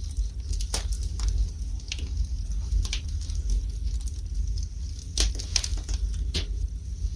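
Wood fire burning in a fireplace, crackling with irregular sharp pops over a low steady rumble. A few louder pops come close together about five seconds in.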